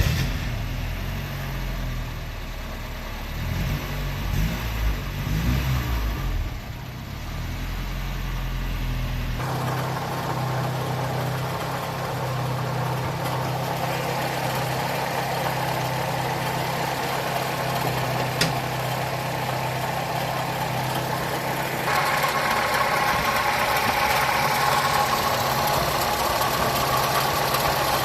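Chevrolet Chevette four-cylinder engine, just started, running rough and uneven for several seconds, then settling into a steady idle. About two-thirds of the way through, a louder mid-pitched whirring noise rises over the idle: the noise the owner puts down to a failing water pump.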